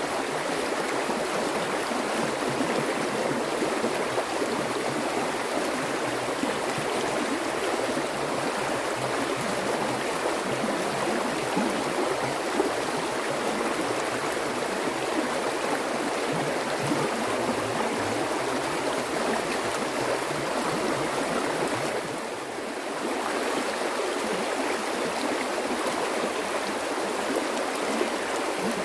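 Flowing water running in a steady, continuous rush, with a brief dip in level about three quarters of the way through.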